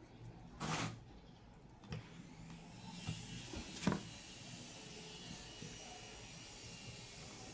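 A short scuff and a sharp knock, then a small electric motor starts about two and a half seconds in and runs steadily.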